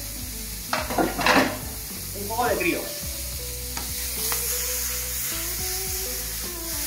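Cuttlefish sizzling on a hot griddle, a steady frying hiss that grows a little louder about four seconds in.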